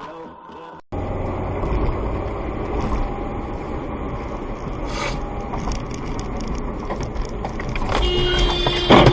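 Steady road and engine rumble of a moving car, heard from inside the car after a short cut. Near the end a steady tone sounds and several loud knocks and clatters come.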